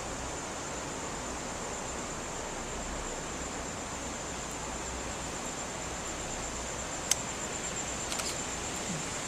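Steady high-pitched insect buzz, finely pulsing, over a soft even hiss of rainforest ambience, with a sharp click about seven seconds in and a few faint clicks just after.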